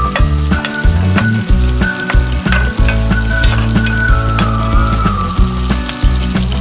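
Pork, onion and ginger sizzling in hot oil in a stainless steel frying pan while a spatula stirs them, with repeated clicks of the spatula against the pan. Steady low tones and a wavering high tone run under it.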